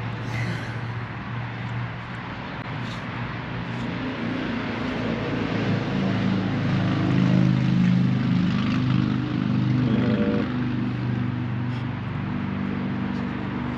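Toro Z587L zero-turn mower's engine running steadily, getting a little louder toward the middle.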